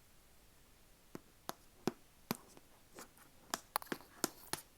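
ASMR tapping: about a dozen sharp, separate taps at an uneven pace, coming closer together in the second half.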